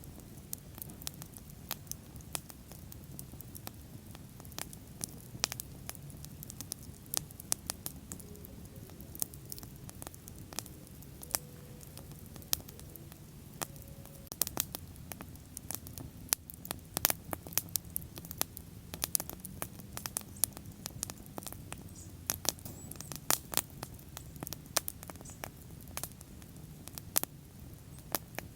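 Wood bonfire burning, with a steady low rumble of flame under many irregular sharp crackles and pops.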